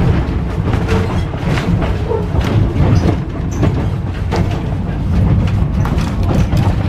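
W2-class electric tram running along its track: a steady low rumble with frequent irregular clicks and knocks from the wheels on the rails.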